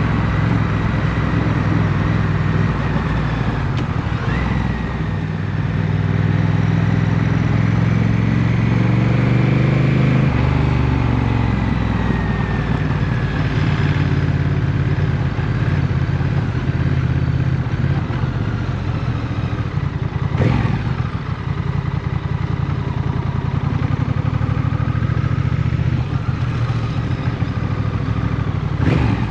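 Motorcycle engine running under way, its revs climbing for a few seconds and then easing off, with two sharp knocks later on.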